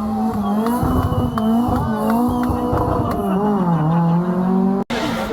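A rally car engine revving hard and easing off, its pitch rising and falling as the car is driven through the stage. The sound cuts out abruptly for an instant near the end.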